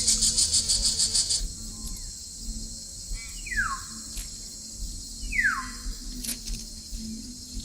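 A bird gives two clear whistles, each sliding down in pitch, about two seconds apart, over a steady high insect drone. For the first second and a half, a loud pulsing insect buzz sits above it.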